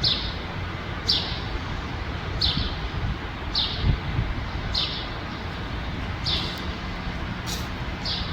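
A bird repeating a short, falling chirp, about seven times at an even pace of roughly one a second, over a steady low background rumble.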